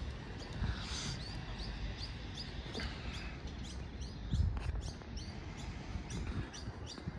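Small birds chirping, many short high calls repeated through the moment, over a low rumble, with a low thump about four seconds in.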